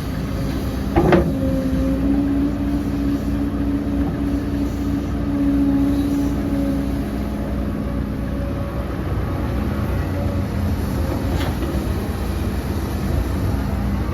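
Heavy diesel earthmoving machinery running steadily, with one sharp clank about a second in and a fainter click later on.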